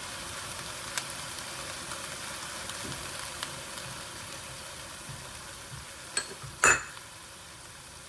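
Chicken pieces frying in onions and ginger-garlic paste in a pot on high flame: a steady sizzle with a few faint ticks. A sharp knock rings out once, a little before the end.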